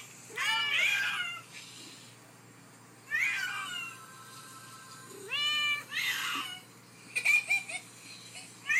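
A domestic cat meowing repeatedly: about five drawn-out meows, each rising and then falling in pitch, one to two seconds apart.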